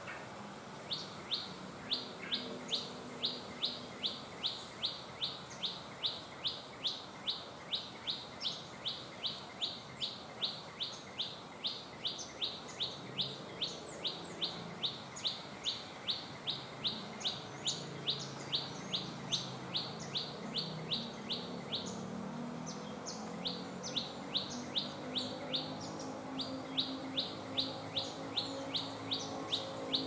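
A small songbird, the 'cit kemade', calling a long, steady series of short, high chip notes, about two or three a second. It pauses for about a second roughly three quarters of the way through, then takes up the same rhythm again.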